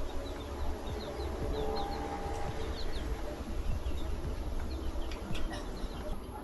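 Small birds chirping, many short quick chirps one after another, over a steady background hiss.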